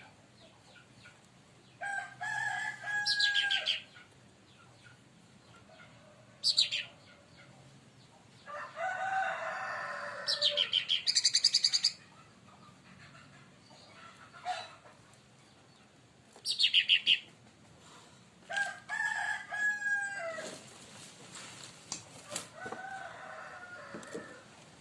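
Leafbird (cucak ranting / cica daun) singing in bursts of sharp high chirps and fast trills mixed with lower drawn-out call notes, with pauses of a few seconds between bursts.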